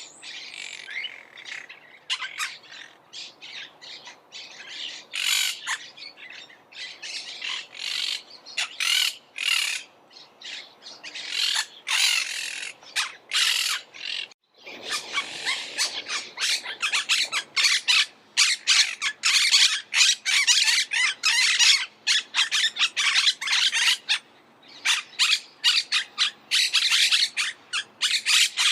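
Monk parakeets (Myiopsitta monachus) giving a rapid series of harsh, screechy squawks. After a brief break about halfway through, the calling becomes denser and louder, as from several birds at once.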